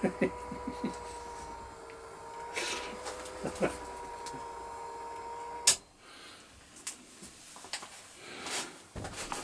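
A small electric motor hums steadily, with light clicks and knocks of handling among the parts, then is switched off with a sharp click about two-thirds of the way through, after which only faint clicks remain.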